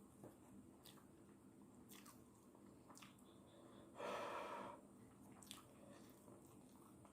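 Faint mouth sounds of someone eating spicy instant noodles: scattered soft chewing clicks, and one short, sharp breath about four seconds in.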